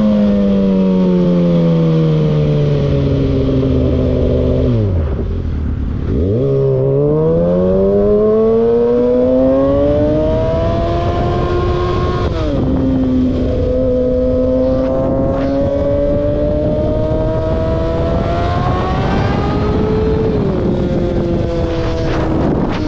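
A vehicle engine running loud. Its note falls as it slows almost to idle about five seconds in, then climbs steadily under acceleration, with two sudden drops in pitch about twelve and twenty seconds in, as at gear changes.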